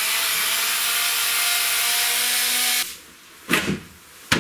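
Steady rasping noise for about three seconds while the front grille panel of a Fender guitar amp is worked loose, then cuts off, followed by two sharp knocks near the end.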